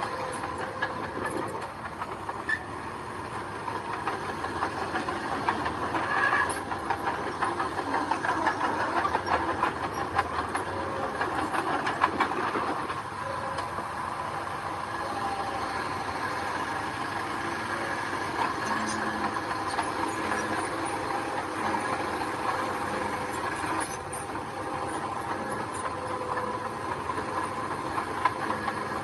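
Mini crawler bulldozer working: its diesel engine runs with a steady whine under a dense rattling clatter from its steel tracks. The clatter grows louder for several seconds in the first half.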